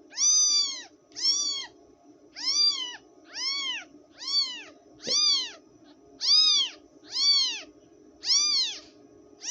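Newborn kitten mewing over and over, about ten high, arched cries roughly one a second.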